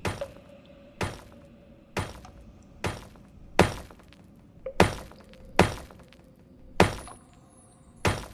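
Logo sound effects: a series of nine sharp, hard impacts, roughly one a second, each dying away quickly, over a faint steady hum.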